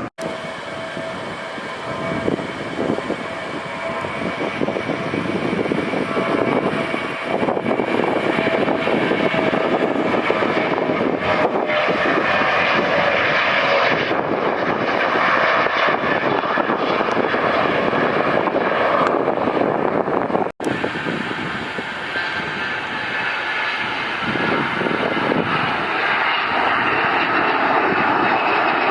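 Jet airliner engines running loud and steady: a rushing noise with a high whine over it, growing louder about a third of the way through. The sound cuts out for an instant twice.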